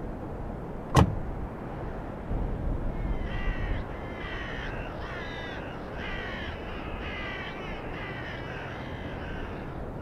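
A large bird calling in a run of about nine harsh, caw-like calls, starting about three seconds in, over a steady low background rumble. A single sharp click about a second in.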